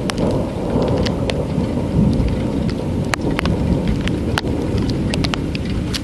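Thunderstorm: heavy rain falling, with individual drops ticking sharply close by over a steady low rumble.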